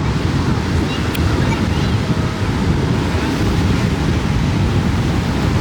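Wind buffeting the microphone: a loud, steady, low rumbling blast.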